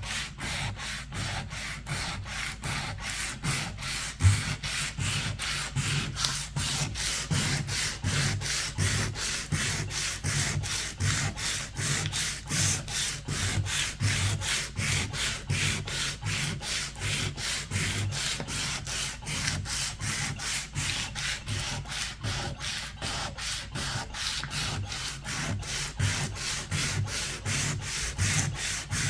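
Hand sanding of old paint and finish: sandpaper rubbed back and forth in a steady rhythm of about three strokes a second, with one sharper, louder knock about four seconds in.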